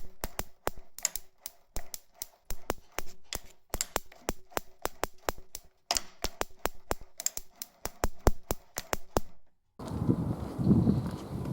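Small engine on a test run with a new ignition condenser, firing in sharp, uneven pops at about four to six a second, with a brief break about six seconds in. Near the end the pops stop abruptly and a steady low rumble takes over.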